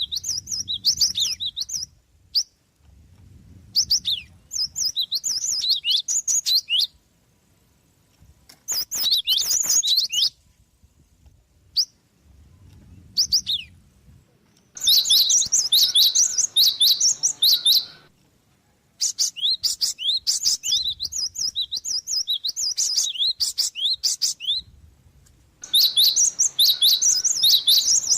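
Gelatik songbird singing in bursts of rapid, high chirps and twitters, each run lasting a second or a few seconds with short silent pauses between. Near the middle and again near the end the runs grow longer and denser.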